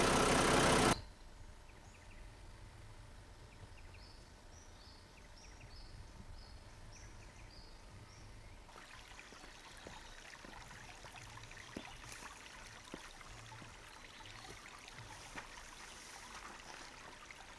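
A vehicle engine running, cut off suddenly about a second in. Then a creek trickling quietly, with a run of short high chirps, and from about halfway through a louder, steady rush of running water with a few small ticks.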